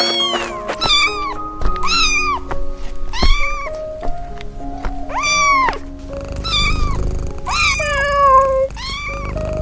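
Domestic cat meowing over and over, about once a second, each meow rising and then falling in pitch, over background music with long held notes.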